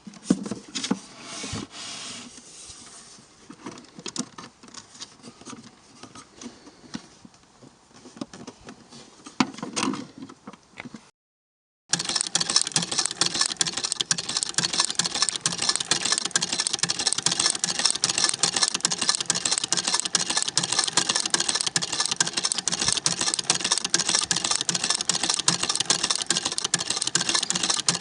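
Antique Singer 28K vibrating-shuttle sewing machine: scattered clicks and knocks at first, then after a short break the machine runs steadily at speed with a fast, even clatter.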